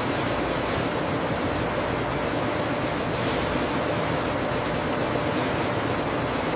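Steady rushing noise of running processing machinery with a faint hum, holding even throughout.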